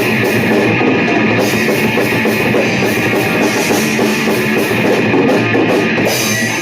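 Heavy metal band playing: electric guitars and a drum kit, loud and steady.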